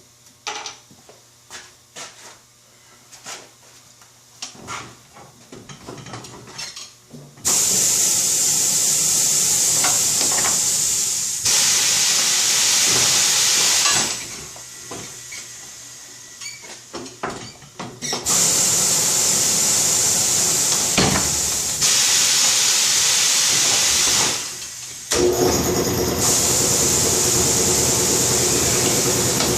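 Compressed air hissing from a Coats rim-clamp tire changer's pneumatic bead breaker as it breaks the bead of an old tractor tire. Light clicks come first, then a hiss starts suddenly about seven seconds in, comes in long blasts of several seconds each, and stops abruptly between blasts.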